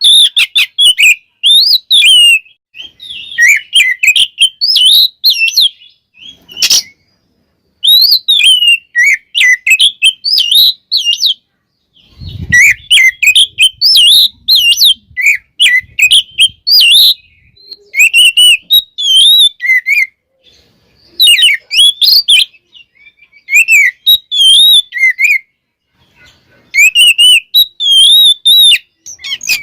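Oriental magpie-robin (kacer) singing in bursts of rapid, varied whistled phrases, with short silent gaps between them. There is a brief click about seven seconds in and a low thump about twelve seconds in.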